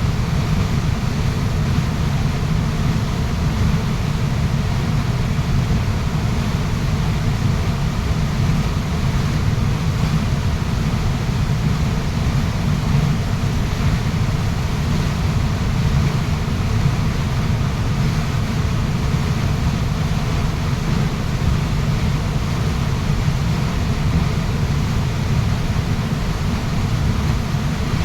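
Waterfall rushing steadily: an even, unbroken noise of falling water, heaviest in the low end.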